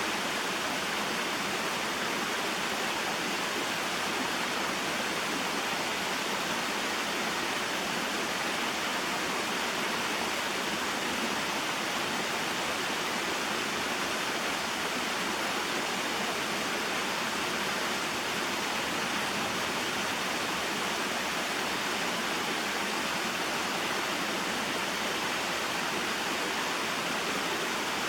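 Small waterfall and stream flowing: a steady, unchanging water noise, mostly high and mid-pitched with little deep rumble.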